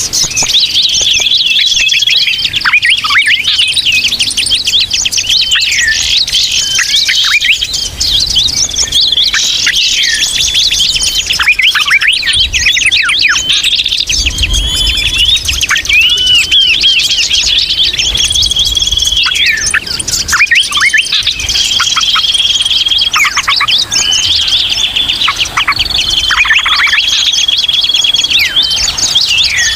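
Dense, unbroken chatter of many small songbirds: rapid chirps, sweeping calls and held high whistles overlapping. This is a 'ribut' bird-lure (pikat) recording of noisy twittering birds.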